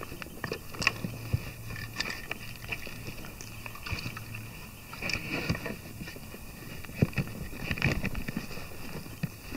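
Gear being handled and packed into a motorcycle pannier: irregular knocks, clunks and rustling as items are pushed in and shifted around.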